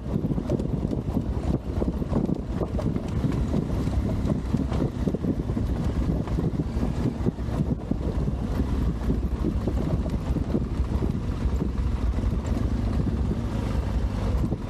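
Adventure motorcycle engine running steadily while riding, under gusting wind buffeting the microphone.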